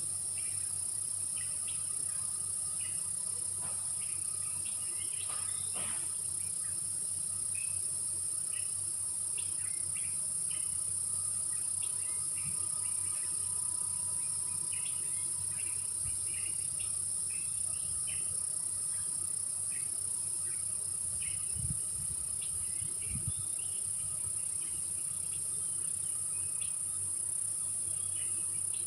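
Tropical forest insect chorus: a steady, high-pitched shrill of crickets and cicadas, with many short chirps scattered through it.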